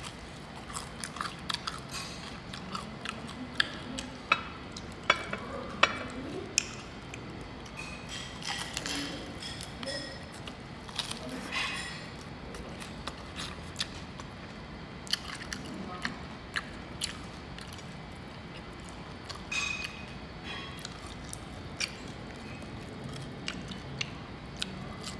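Close chewing and crunching of crispy pork knuckle skin, with irregular sharp crackles as the crisp skin is bitten and chewed.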